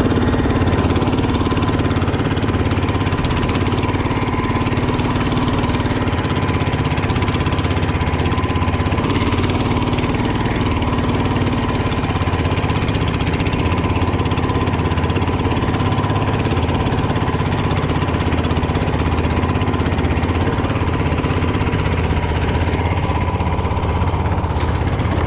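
Fishing boat's engine running steadily, a continuous low drone with a faint steady whine above it.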